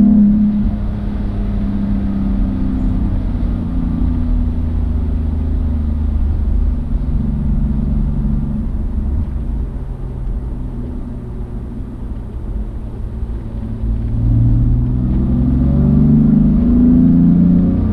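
Car engine running under way: its pitch and loudness sink for most of the stretch as it comes off the power, then it picks up and revs rise again over the last few seconds under acceleration.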